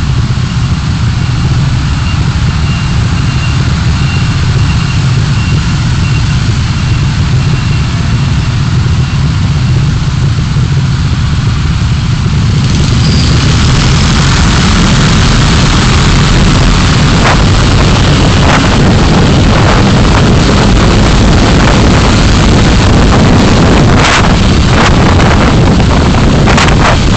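A car driving, with steady engine and road noise. About thirteen seconds in it grows louder and harsher, and short knocks and clicks come through now and then near the end.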